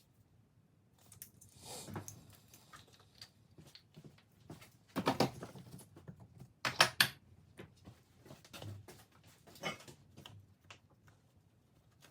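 Small metal hand tools and parts being handled, with scattered clicks and scrapes and a few louder clinks and clatters about five and seven seconds in.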